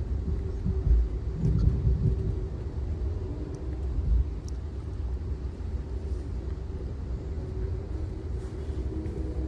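Amtrak Auto Train in motion: the steady low rumble of the passenger car rolling over the track, with a few heavier low thumps in the first two seconds.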